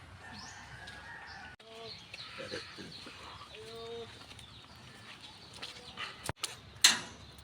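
A few short animal calls, then two sharp knocks near the end; the second knock is the loudest sound.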